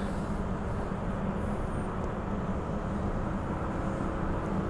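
Steady running noise of a Bombardier B-series electric multiple unit heard from inside the carriage while the train is moving, an even rumble with a constant low hum.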